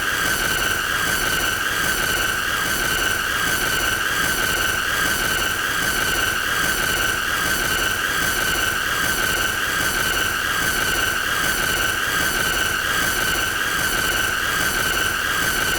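A continuous high-pitched squealing tone, held on one pitch with a slight fast wobble and a shrill edge of overtones.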